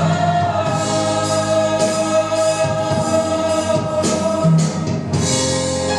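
Gospel praise team singing together as a choir, holding long sustained notes.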